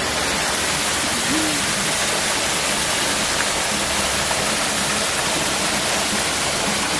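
Short waterfall pouring steadily, a loud, even rush of falling water.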